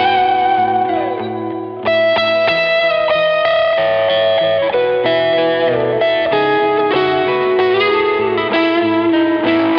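PRS Modern Eagle III electric guitar with narrow-field pickups, played through effects, picking a melodic lead line. Notes are held with vibrato, one slides down about a second in, and later notes are bent up.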